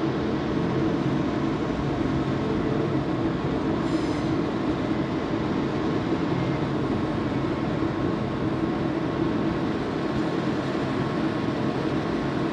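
Steady rumble and hum of trains at a station platform, one pulling out and another standing, holding even in level throughout. A brief high squeal about four seconds in.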